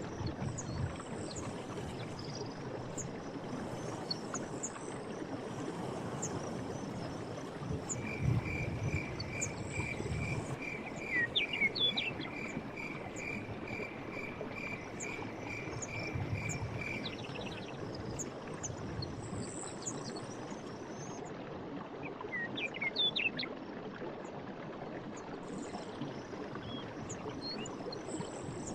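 Stream water running steadily under a faint high insect drone, with scattered short bird chirps. From about eight seconds in, a high note repeats evenly about twice a second for some nine seconds.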